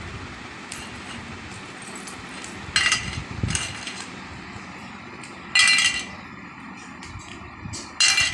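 Pet parrot giving four short, harsh, high-pitched squawks, spaced a second or two apart, over a low steady background hum.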